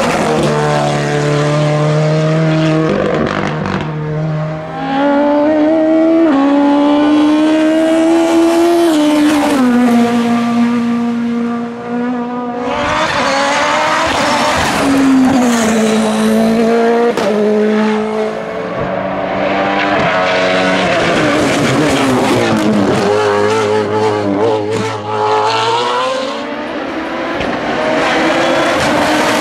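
Hillclimb race car engines at full throttle, pitch climbing hard through the gears and falling back at each shift and under braking, again and again.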